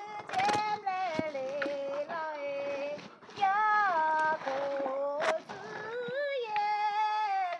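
A high female voice singing a melody without accompaniment, holding long notes and sliding between them in phrases with short breaths between.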